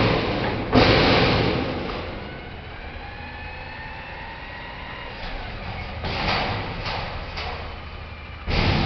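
Garbage truck running with a steady low rumble. Two loud rushing bursts come in the first two seconds, faint whining tones rise in the middle, and softer rushing bursts follow near the end.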